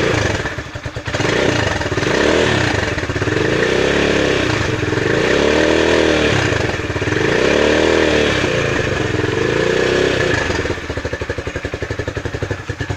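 Rusi Classic 250 motorcycle engine idling, then revved up and let back down several times in a row before returning to idle. It is breathing through the stock muffler with its end silencer insert removed, which gives a louder, rounder exhaust note.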